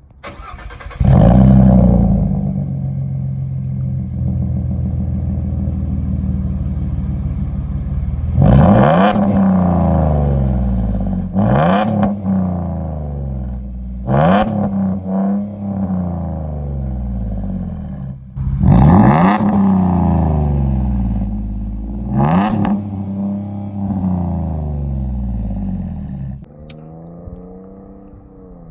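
2017 Ford F-150's naturally aspirated 3.5-litre V6 with its muffler deleted, starting up about a second in with a loud flare and settling to idle. It is then revved about five times, some as quick double blips, each rising and dropping back to idle, and it goes quieter near the end.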